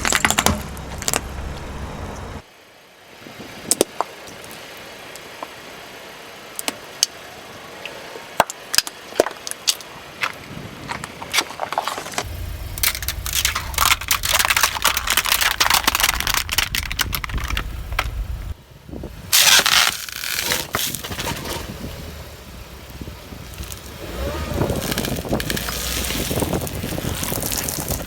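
A car's tyres rolling over and crushing brittle objects, giving a run of sharp cracks and pops over the low rumble of the car. About twenty seconds in there is one loud burst of crunching.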